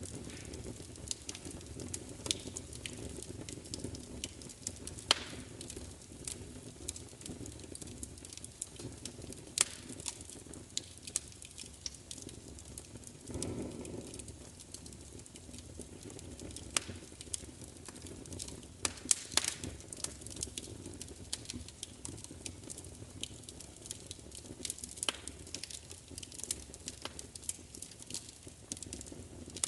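Fire crackling, with irregular sharp pops and snaps over a steady low rumble, and a brief low swell about halfway through.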